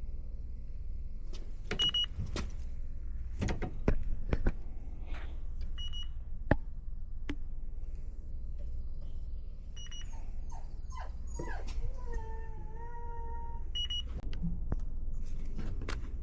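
Electronic refrigerant leak detector giving short high beeps about every four seconds as it is swept around the system, with no leak found. Scattered clicks and knocks of handling come through, and a drawn-out whine about twelve seconds in.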